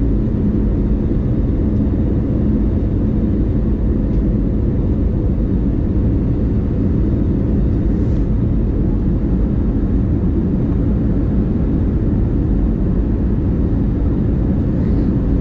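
Steady cabin rumble inside an Airbus A320neo airliner, with a low steady hum running under it.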